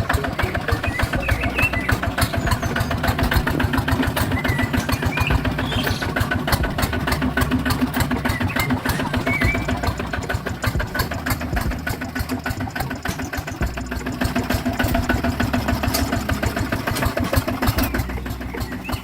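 Small tractor engine running steadily with a rapid, even chug.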